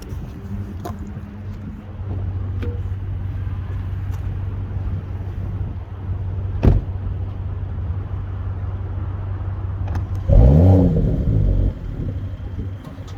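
Mercedes-AMG E53's turbocharged inline-six idling steadily just after a cold start. About halfway there is a single sharp click, and about ten seconds in a quick throttle blip makes the revs rise and fall back to idle.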